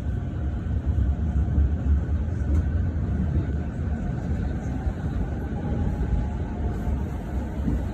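Interior of a JR Chūō–Sōbu Line local commuter train running between stations: a steady low rumble from the wheels and running gear, with a faint steady whine above it.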